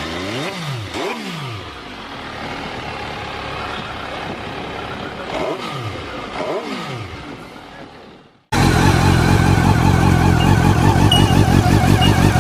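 Motorcycle exhaust as the engine is blipped: the pitch jumps up and falls back twice in quick succession, then again twice a few seconds later, before the sound fades away. After a sudden cut about eight and a half seconds in, another motorcycle engine is running loud and steady.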